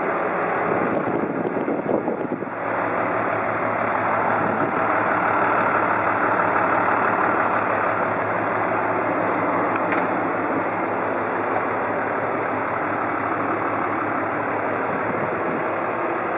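Mitsubishi Fuso Fighter truck's diesel engine idling steadily, with a few knocks about two seconds in.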